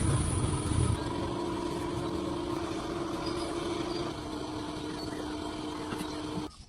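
A machine running steadily with a droning tone, heavy low rumble in the first second, the pitch dropping slightly about four seconds in; it starts suddenly and cuts off near the end.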